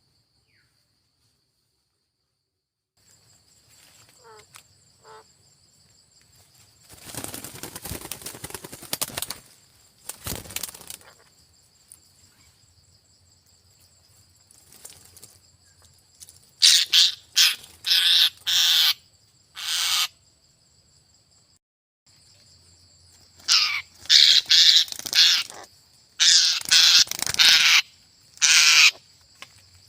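A parrot giving loud, harsh squawks in two bouts of rapid short cries, over a steady high insect trill.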